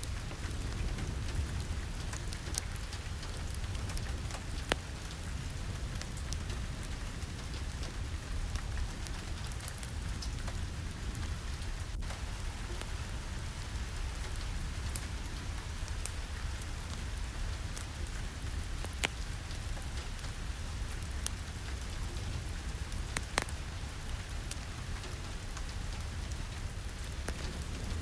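Steady rain with a low rumble underneath, mixed with a fireplace whose sharp crackles stand out a few times.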